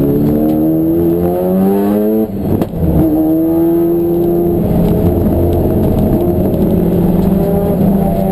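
Race car engine revving up under acceleration, with a short drop in the note at a gear change about two seconds in, then running on at a steadier pitch.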